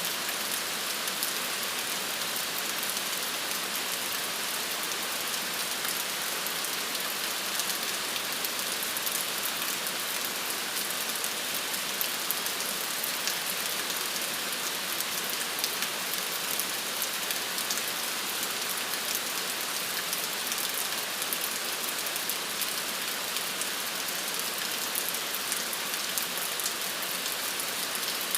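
Steady rain falling on a surface, an even hiss with many small drop ticks and no pauses or swells.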